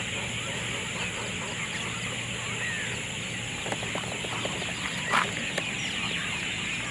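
Many birds calling at once, a dense chorus of short chirps and calls, with a steady high whine underneath. One call stands out a little louder about five seconds in.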